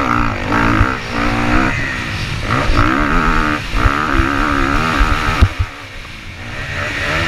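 Motocross bike engine revving up and down as it is ridden, with the pitch climbing and dropping repeatedly. It goes quieter for about a second near the end, then builds again.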